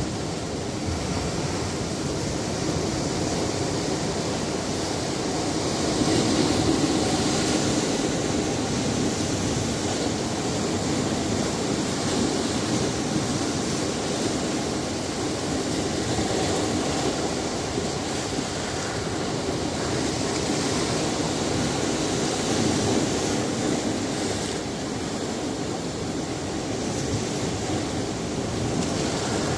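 Sea surf breaking against a rocky shore: a continuous wash of waves that swells and ebbs, one surge stronger about six seconds in.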